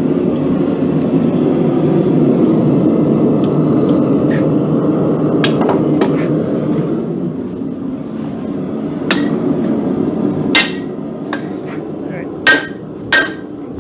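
A steady rushing noise fades over the first half. Then hammer blows land on steel at the anvil, each with a short metallic ring; they are sparse at first and come closer together near the end, as the piece is forged.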